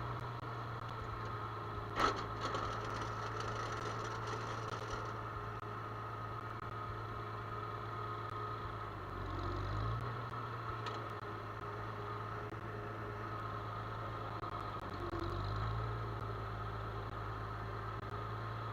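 Farm machine engine running steadily, with one sharp click about two seconds in and small shifts in the engine note about halfway through and again near the end.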